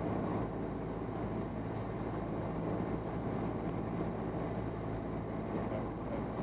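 Steady drone of a Cessna 172N's four-cylinder Lycoming engine and propeller, heard from inside the cabin.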